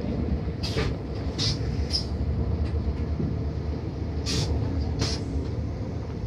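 Moving train heard from inside the carriage: a steady low rumble, with a few short hissing noises breaking in.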